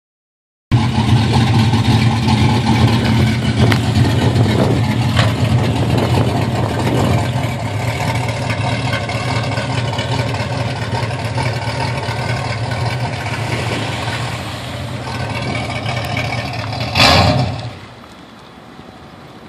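1995 Chevrolet Corvette C4's V8, fitted with aftermarket heads and cam and not yet tuned for them, running steadily. About 17 seconds in, a brief louder burst, after which the sound drops off sharply.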